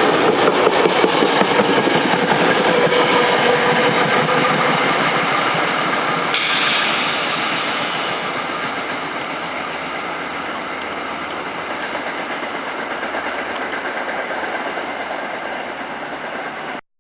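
SEPTA Silverliner IV electric multiple-unit train running on the rails as it pulls away from the station, a steady rumble of wheels and running gear that slowly grows fainter and stops abruptly near the end.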